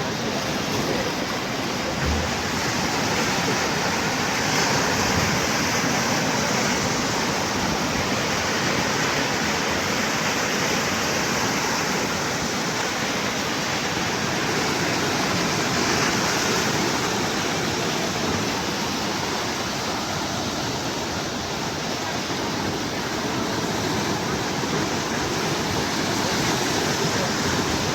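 Sea waves breaking and washing in a continuous rushing surf, swelling gently louder and softer every several seconds.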